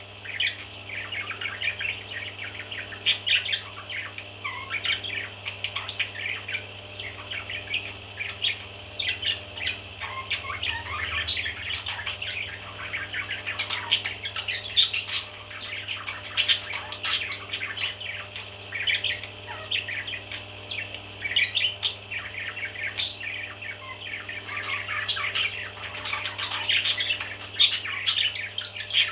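Parrot chicks chirping and squawking without a break, many short calls overlapping, over a steady low hum.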